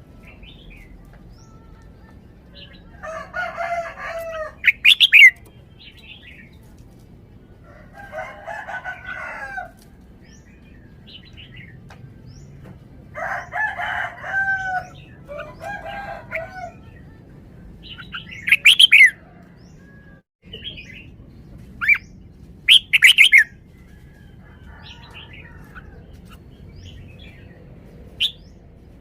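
Red-whiskered bulbul singing: short warbling song phrases every few seconds, some ending in sharp, loud whistled notes.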